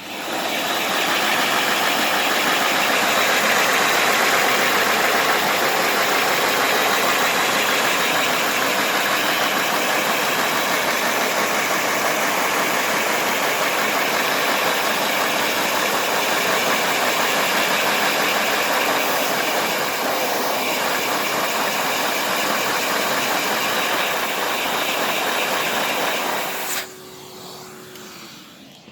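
Loud steady rushing of the suction source driving a Lego four-cylinder oscillating vacuum engine, with the engine's running noise mixed in. About 27 seconds in the noise drops sharply and winds down as the suction is shut off.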